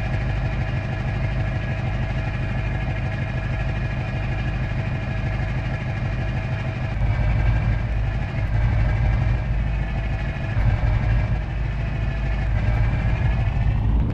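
Scania truck's diesel engine running steadily, getting louder about halfway through.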